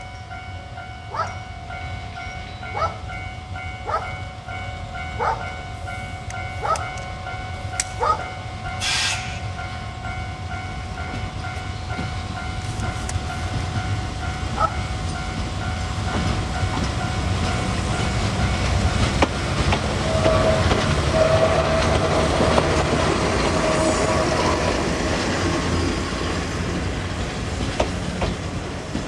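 EF58 electric locomotive and its train of coaches rolling slowly in. The wheels click over rail joints about once every 1.2 seconds, a short hiss of air comes about nine seconds in, and the rumble of the cars grows louder as they pass close by.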